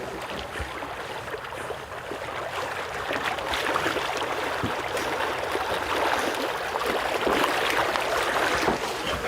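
Water sloshing and splashing with many small splashes, growing a little louder after about three seconds.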